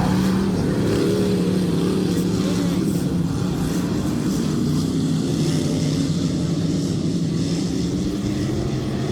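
A field of dirt-track race cars running at speed around the oval, several engines overlapping in a steady, slightly wavering drone that rises and falls gently as the pack circulates.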